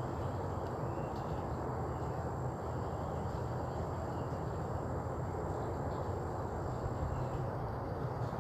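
Steady outdoor background noise with a faint high, insect-like tone that stops near the end, and a few faint chirps.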